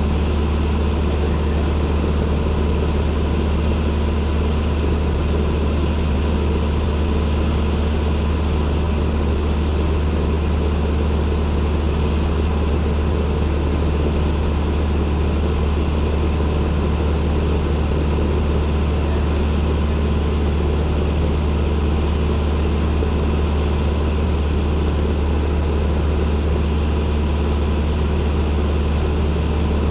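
Cessna 172N's four-cylinder Lycoming engine and propeller droning steadily in flight, heard from inside the cabin, with no change in pitch or power.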